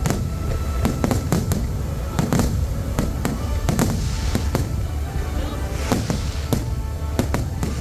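Fireworks going off in quick, uneven succession: many sharp bangs, with bursts of crackling about four and six seconds in. Music plays underneath.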